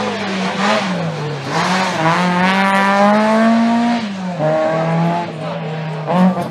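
Rally car engine under hard acceleration: the revs climb steadily for about two seconds, fall sharply about four seconds in as the driver lifts or changes gear, then hold at a steadier pitch.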